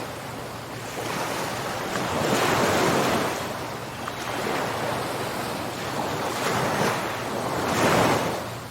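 Ocean waves breaking and washing on a shore, a steady surf hiss that swells and ebbs, with the loudest surges about two seconds in and again near the end.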